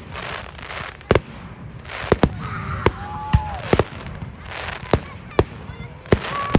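Fireworks going off: about ten sharp bangs at irregular intervals over a steady hiss of crackling.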